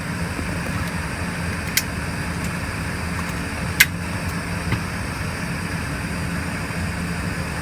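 Steady cabin hum of an Embraer ERJ-145 regional jet on the ground, its engines running at low power together with the air-conditioning airflow. Two short clicks cut through, a faint one about two seconds in and a louder one near four seconds.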